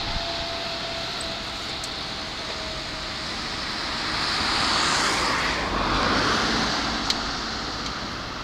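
Electric commuter train running past on the line: running and wheel-on-rail noise swells to its loudest about halfway through, dropping in pitch as it goes by, then eases off. A faint steady whine fades out in the first three seconds, and a single sharp tick comes near the end.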